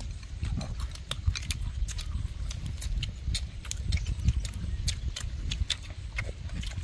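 Close-up chewing and lip-smacking of people eating fried food with chopsticks: irregular wet clicks and smacks, several a second, over a steady low rumble.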